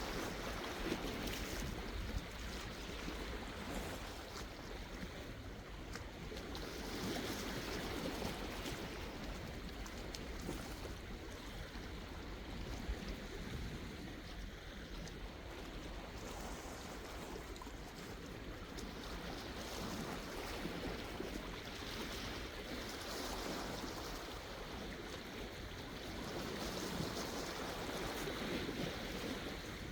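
Sea waves washing in steadily, swelling and easing every few seconds, over a constant low rumble.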